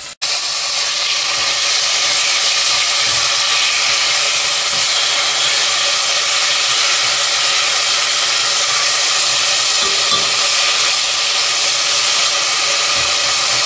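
Diced chicken breast sizzling in hot oil in a stainless steel pot, a loud, steady hiss as the meat sears. It starts right after a momentary gap at the very start.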